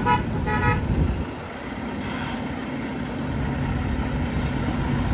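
Two short horn toots in the first second, then a vehicle engine running steadily with a low rumble.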